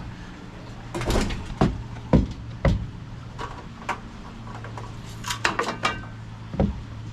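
A series of irregular knocks, clunks and clatters of hard objects being handled and set down, about a dozen in all with a busier cluster near the end, over a steady low hum.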